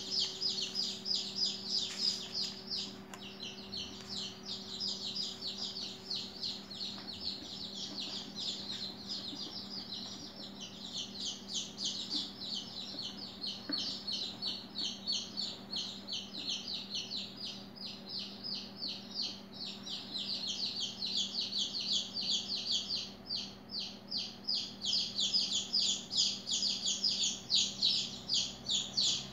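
Dense, continuous high-pitched bird chirping, many quick chirps a second, with a steady low hum underneath.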